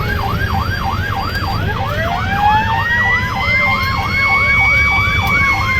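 Fire engine siren on a fast yelp, about four sweeps a second, joined about two seconds in by a second siren tone that rises and then holds a steady high pitch. The truck's engine rumbles underneath.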